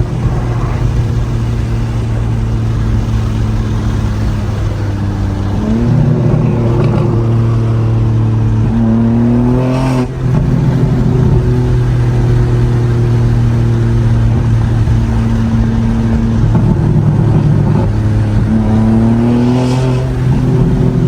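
BMW G82 M4's twin-turbo inline-six running through catless resonated downpipes and an open-valve exhaust, heard from inside the cabin with the windows down. The engine pulls under acceleration with rising pitch, drops briefly about ten seconds in, holds steady, then climbs again near the end.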